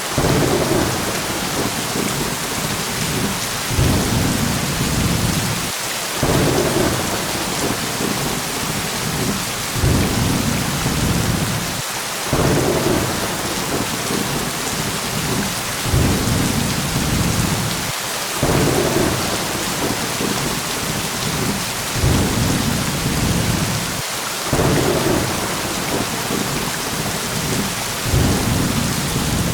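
Thunderstorm: steady heavy rain with low thunder rumbles that swell and fade every few seconds in an even, repeating pattern.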